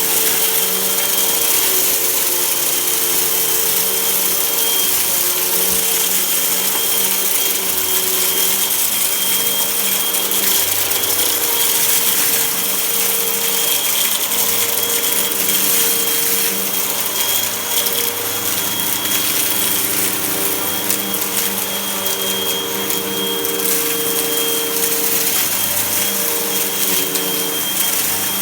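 Vacuum cleaner running steadily while sucking up dirt: a loud even hiss with a thin high whine, its motor hum wavering slightly in pitch.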